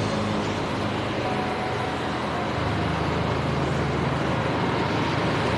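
A car driving: steady engine hum and road noise.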